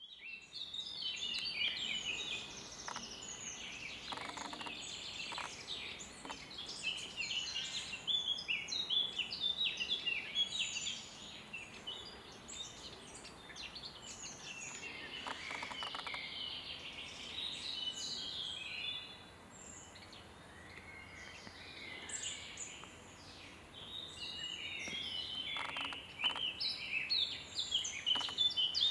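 Several songbirds singing at once, a dense overlapping chorus of high chirps.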